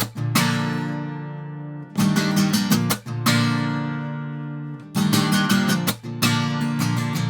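Acoustic guitar playing an instrumental break between sung lines: groups of picked and strummed chords about every second or three, each left to ring out and fade.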